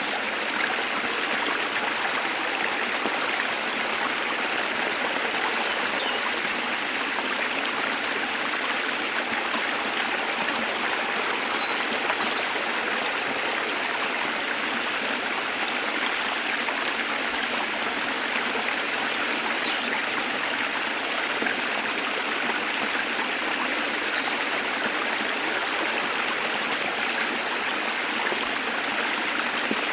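Waterfall water rushing in a steady, even hiss, with a few faint, high bird chirps scattered over it.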